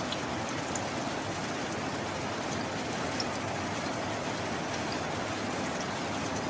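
Steady rain: an even hiss of falling water, with faint scattered drop ticks and no thunder.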